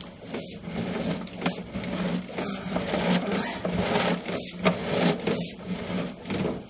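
Drain inspection camera being fed through a sink drain line: irregular knocks, clicks and scraping of the cable and camera head against the pipe, over a steady low electrical hum.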